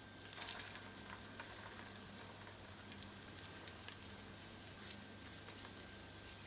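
Egg-coated chicken and potato cutlets frying in shallow oil over very low heat: a faint, steady sizzle with scattered small crackles, and a few light clicks about half a second in.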